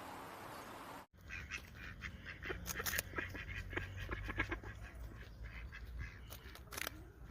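A steady hiss that cuts off abruptly about a second in. Then waterfowl call repeatedly in short, sharp calls over a low rumble.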